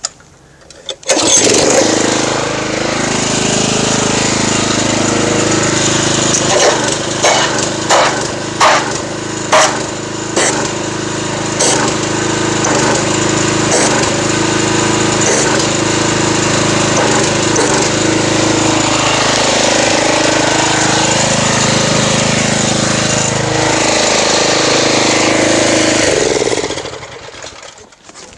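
Pressure washer running, its jet blasting into a bucket of car-wash soap and water to whip it into foam. The motor starts about a second in and runs steadily, with a run of sharp splashy cracks in the middle, then stops near the end.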